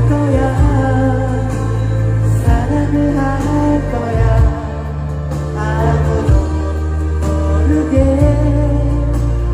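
Amplified festival stage music: a singer's voice over a band with a strong, steady bass line.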